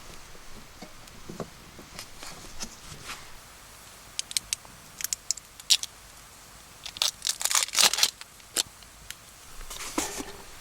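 Crinkly packaging being handled and torn: scattered sharp crinkles, thickest about seven to eight and a half seconds in, with another burst near the end.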